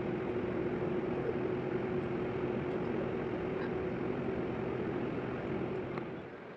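Doha Metro electric train running, a steady rumble with a steady hum through it, easing off and dropping in level near the end.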